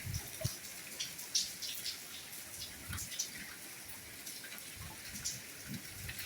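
Light rain falling steadily, an even hiss with individual drops ticking and dripping at irregular moments.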